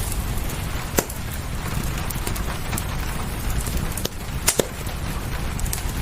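Fireplace crackling, with scattered sharp pops: a loud one about a second in and two close together near the end, over a steady hiss and low rumble of rain.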